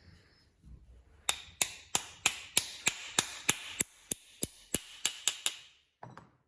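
A quick, even series of sharp hammer-like taps, about three a second for roughly four seconds, each with a short ringing tail. A brief rustle follows near the end.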